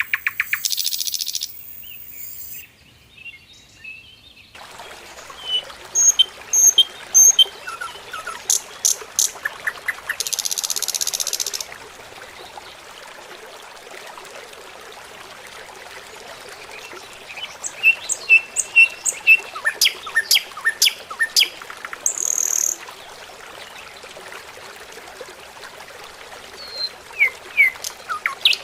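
Small birds chirping in short, repeated calls, with a few brief bursts of hiss.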